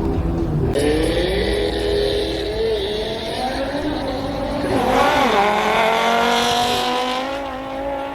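Sports car engine at the drag strip under hard acceleration, its pitch climbing steadily, briefly dropping and rising again about five seconds in, then climbing on.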